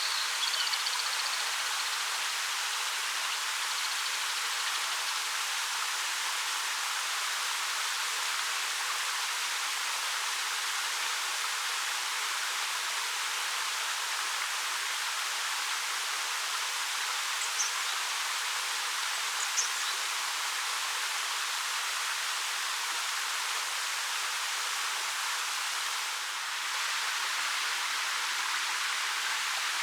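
Steady rush of water falling about 13 m over black rock at Ariake Falls, an even hiss with no low rumble.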